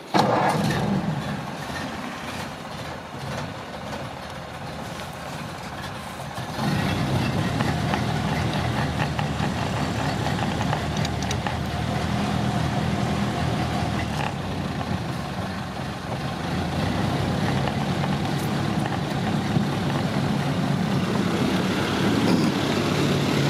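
1930 Ford Model A's four-cylinder flathead engine starting right at the beginning and running. About six and a half seconds in it gets louder and holds a steady fast idle, high enough that someone then asks about turning the idle down.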